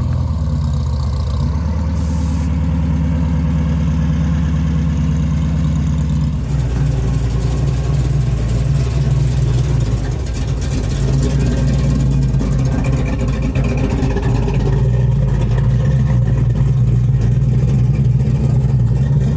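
A car engine running loudly close by, with a low, steady exhaust note that shifts about six seconds in and carries on to the end.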